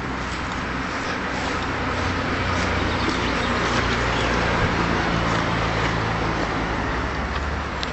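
A motor vehicle going past, its engine hum and road noise building, holding through the middle and easing off near the end.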